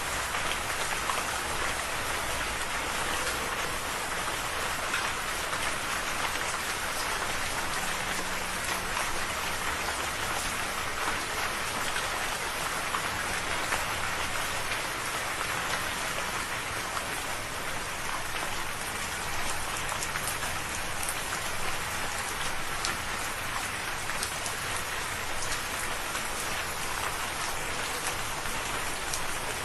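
Steady rain falling on a surface, an even hiss with scattered fine drop ticks.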